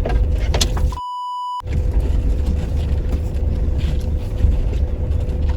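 Toyota Hilux engine and drivetrain running steadily under load on a muddy climb, a continuous low rumble with a faint steady whine. About a second in, the sound cuts out for half a second under a censor bleep, a pure beep tone.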